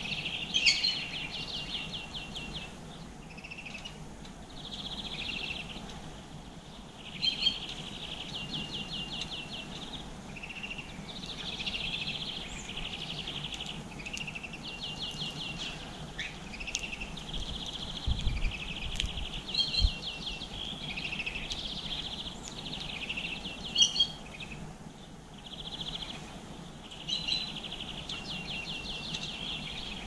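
A songbird singing the same short phrase over and over, about every four to five seconds. Each phrase has a rapid trill lasting about a second and a half, and a few sharp clicks fall in between.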